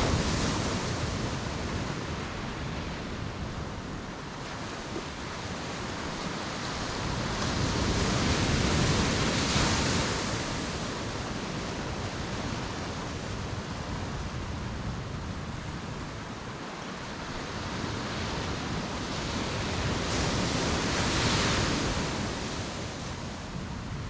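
Sea waves breaking on a beach. The surf swells and washes in about every ten to twelve seconds, with a steady hiss of water in between.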